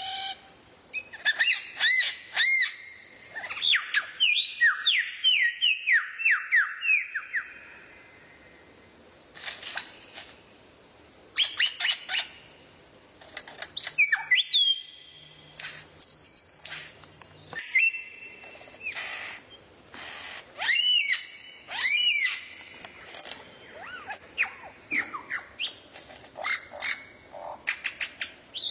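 Songbird singing a fast, varied song of sharp rising-and-falling chirps and a few short held whistles, in bursts separated by brief pauses.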